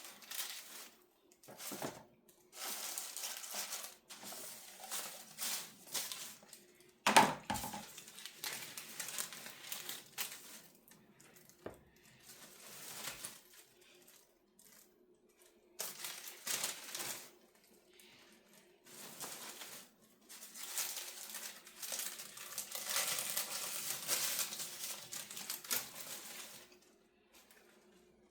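Baking paper crinkling and rustling as it is torn and handled in repeated bursts, with one sharp knock about seven seconds in.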